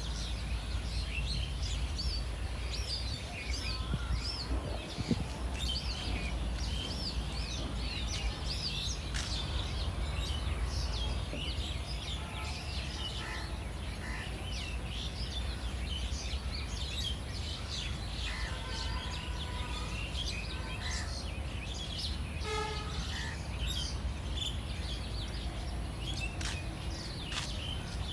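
A chorus of small birds chirping and singing over a steady low rumble, with a few harsher, buzzier calls about two-thirds of the way through.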